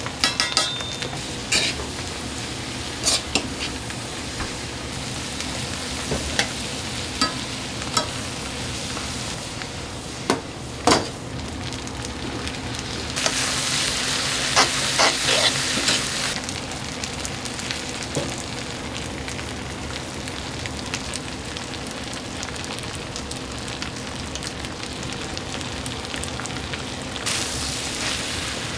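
Food sizzling in a hot pan while being stir-fried, with sharp clicks and taps of a metal utensil against the pan. The sizzle swells louder for a few seconds about halfway through and again near the end.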